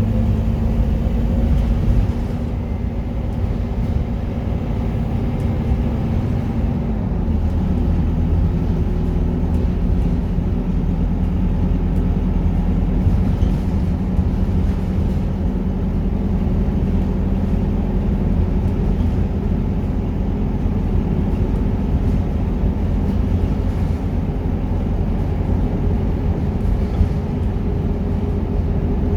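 Scania K230UB Euro 4 bus's diesel engine running while the bus is under way, a steady low drone. The engine pitch dips about two seconds in, then slowly climbs.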